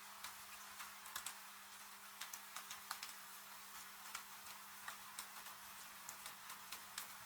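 Wood fire crackling with irregular sharp pops and snaps, over a steady hiss of rain.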